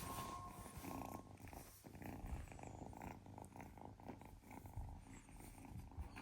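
Kitten purring quietly, a faint rapid rumble.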